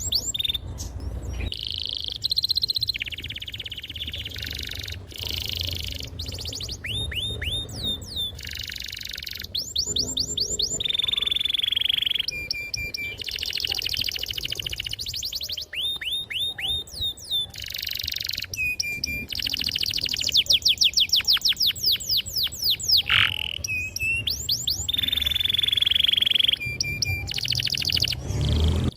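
Domestic canary singing a long, unbroken song. Fast trills of repeated down-slurred notes alternate with sustained rolls and short lower buzzy notes, and the phrase changes every second or two.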